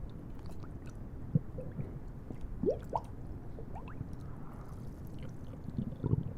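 Stomach gurgling and squishing over a low rumble, with a few short rising gurgles in the middle.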